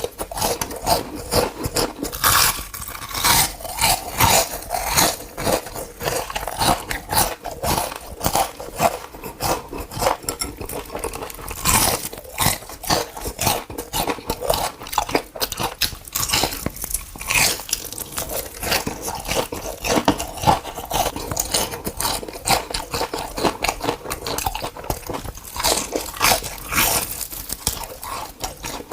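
Close-miked ASMR eating: a person biting into and chewing crunchy food, with a quick, irregular run of sharp crunches throughout.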